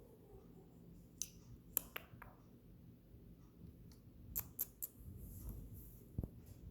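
A few short, sharp clicks and light scrapes close by, scattered irregularly, over a faint steady hum.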